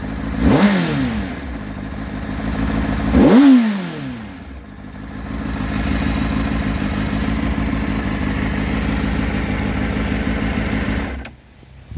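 2004 Honda CBR600RR's inline-four engine through its stock exhaust, blipped twice with quick rises and falls in revs, then idling steadily before cutting off abruptly near the end.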